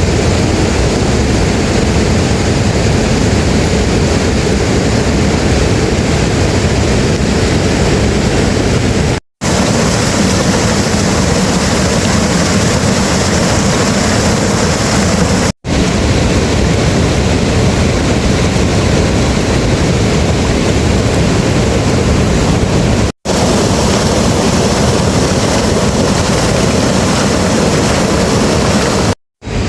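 Heavy rain pouring down in a steady, loud hiss, broken by a few brief silent gaps where shots are cut together.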